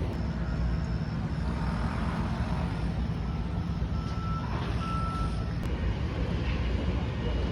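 A heavy vehicle's engine running with a low, steady rumble, and a reversing alarm sounding short high-pitched beeps over it.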